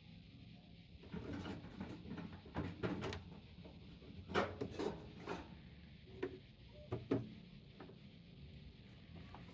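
Parts of a microwave oven being handled while it is scrapped: a run of irregular knocks and rattles over about six seconds, the loudest about four seconds in and again near seven seconds.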